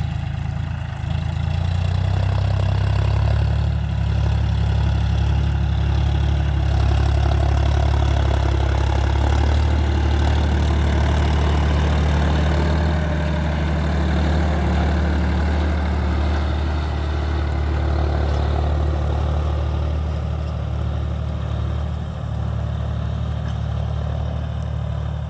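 John Deere 5050D tractor's three-cylinder diesel engine running steadily, growing louder about one and a half seconds in and easing off slightly near the end.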